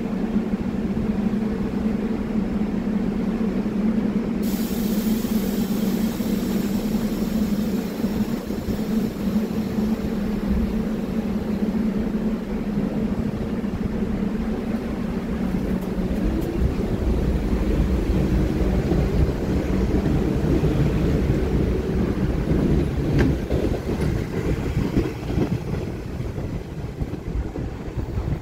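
Staten Island Railway R44 train pulling out of the station. A steady hum comes from the cars, and a high hiss starts suddenly about four seconds in. Then a low rumble of the wheels on the rails builds as the cars roll past, with a sharp click near the end.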